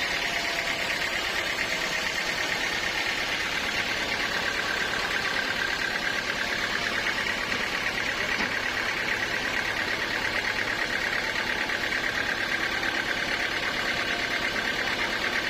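Sawmill saw running steadily, a continuous mechanical sound with a strong high hum that sinks slightly in pitch over the stretch.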